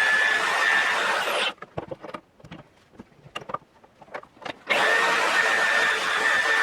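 Electric power tool running with a steady whine, cutting out about a second and a half in. A few light clicks and knocks follow, then it starts up again abruptly near the end.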